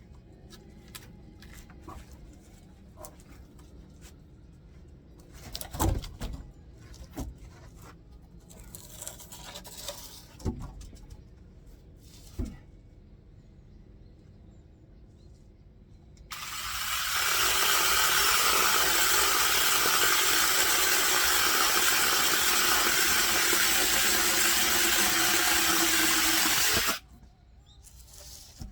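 Scattered knocks and thumps, then a loud motor that starts about halfway through, runs steadily for about ten seconds and cuts off suddenly.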